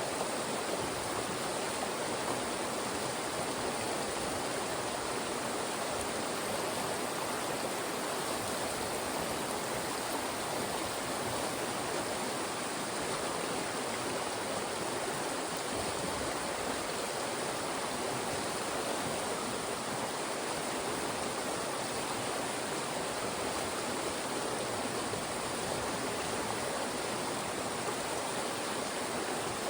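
Fast-moving mountain stream rushing through funnels of rocks: a steady, even roar of water with no breaks.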